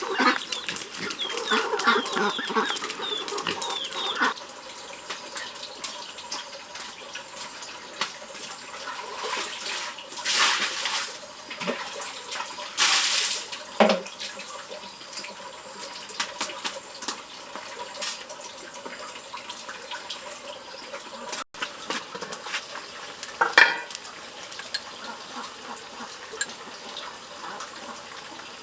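Farm poultry calling over the first few seconds, then water splashing or pouring in a few short bursts, about ten and thirteen seconds in.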